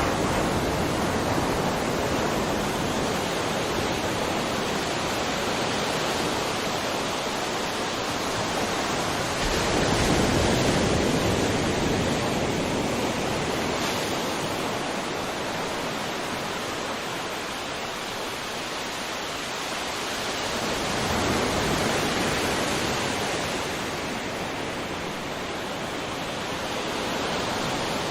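Ocean surf: a continuous wash of breaking waves that swells louder about a third of the way in and again about three quarters of the way through.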